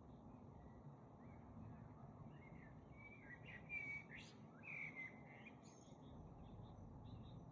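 Faint birdsong: a cluster of short chirps and whistled phrases about halfway through, over a steady low background hiss.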